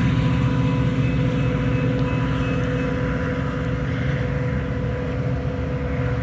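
Metra commuter train running with a steady low diesel drone and a few steady tones above it, slowly growing quieter.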